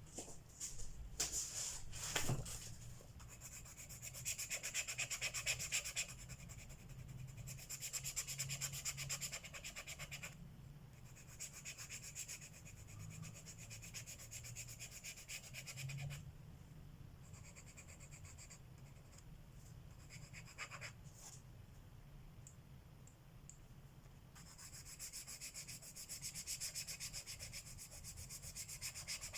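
Colored pencil scratching across paper in fast back-and-forth shading strokes, coming in spells with short pauses between them. A few light clicks sound in the first couple of seconds.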